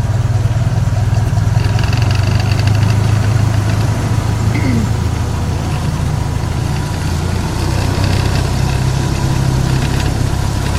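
Park train's engine running steadily as the train rolls along, a constant low hum.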